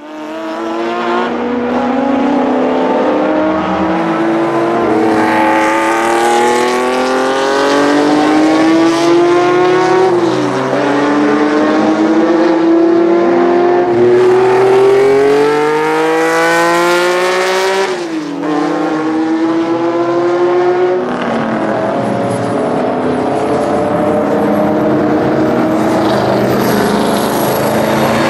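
A racing car's engine accelerating hard. Its note climbs steadily through each gear and drops sharply at the upshifts, about ten and eighteen seconds in. From about 21 seconds the engine note holds steadier.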